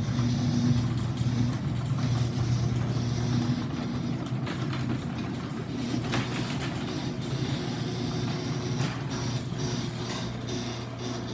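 Stanley garage door opener running as it drives the door: a steady low motor hum with scattered clicks and rattles from the drive.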